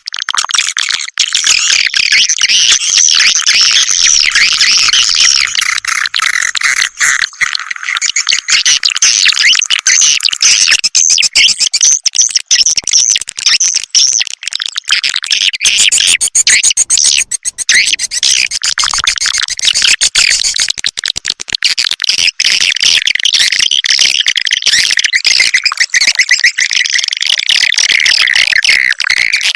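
Swiftlet calling (lure) sound: a dense, unbroken chorus of many overlapping swiftlet chirps and twitters, the kind of recording played to draw swiftlets into a nesting house.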